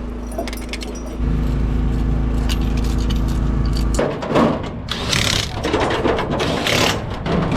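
An engine running steadily, stepping up a little in level about a second in. About four seconds in it cuts off abruptly and gives way to gusty rushing noise.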